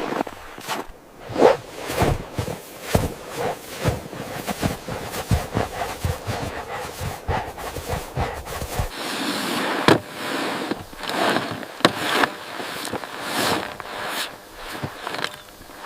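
A long run of irregular crunches and knocks, many short sharp sounds a fraction of a second apart, with a brighter, hissier stretch from about halfway through.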